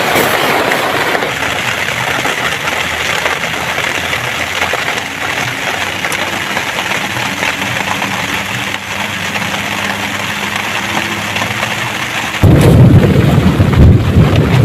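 Heavy rain falling steadily. About twelve seconds in a loud low rumble comes in suddenly and holds to the end.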